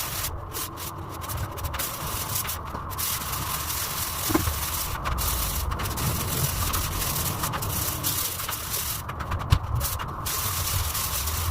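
A hand tool scraping and rubbing over a wall during puttying, in repeated strokes with brief breaks between them.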